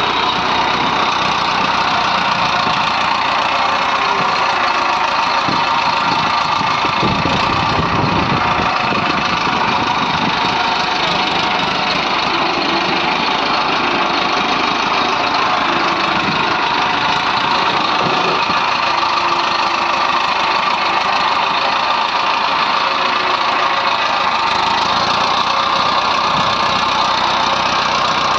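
Heavy diesel engine running steadily at a loading site, with a stronger low rumble about seven to eight seconds in.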